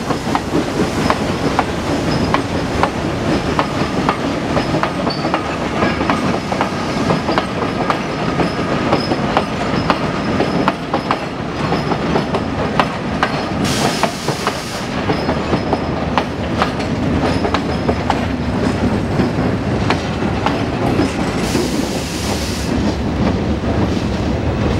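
Broad-gauge goods wagons and passenger coaches rolling past, their wheels clattering steadily over the rail joints. Twice, about halfway through and again near the end, a brief high wheel squeal rises over the clatter.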